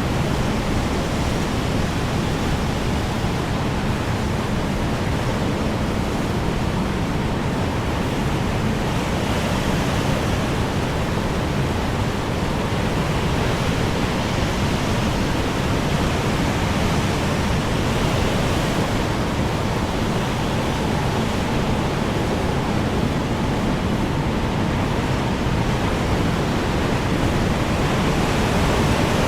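Strong wind blowing steadily, a dense rushing noise heaviest in the low end that swells a little now and then.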